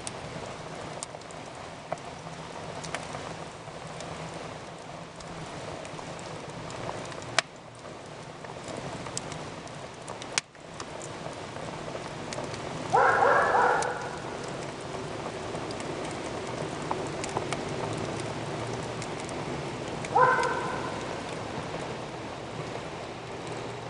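Campfire crackling steadily, with frequent small ticks and two sharper pops. Two brief pitched sounds stand out as the loudest things: one about a second long just past the middle, and a shorter one later on.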